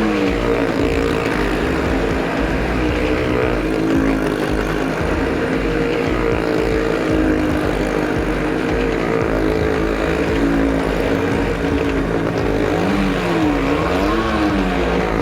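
Stunt vehicle engines running hard as they circle the wall of a well-of-death arena. The engine note holds steady, then rises and falls in repeated waves near the end.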